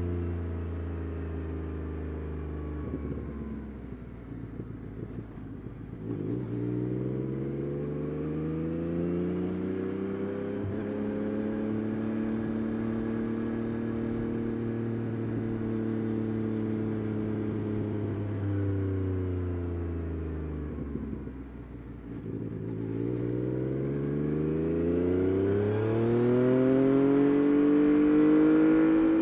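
Yamaha Tracer 9 GT+ CP3 inline-three engine through a Roadsitalia titanium exhaust, heard from the bike while riding. The engine note drops off at first, builds and holds steady, eases off again, then climbs hard and gets louder near the end under acceleration.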